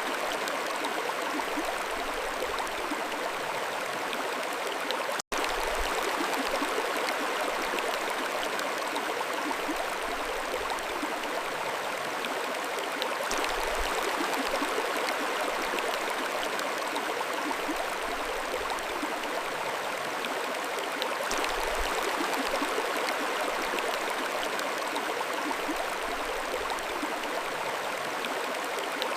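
Mountain stream flowing steadily, an even rush of water. The sound cuts out for an instant about five seconds in.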